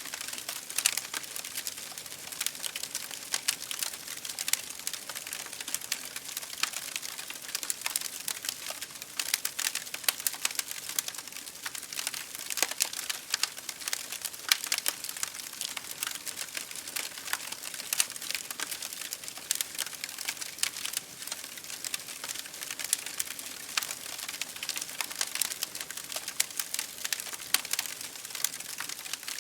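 Wood fire crackling in a fireplace, with rain pattering on a window pane: a steady hiss dense with small irregular pops and ticks.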